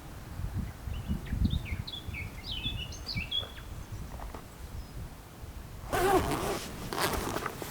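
A small bird gives a quick string of short chirps over low rumbling outdoor noise. About six seconds in, a louder burst of rustling and handling noise follows.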